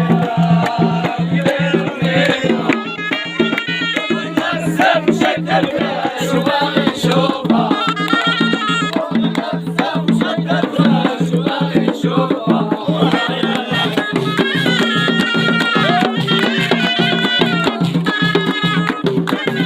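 Traditional Moroccan folk music: a ghaita (double-reed shawm) plays a high, stepping melody over a low steady drone and a regular drum beat.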